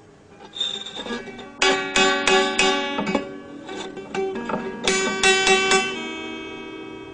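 Plucked string instrument playing quick runs of ringing notes, in two phrases with a pause between them.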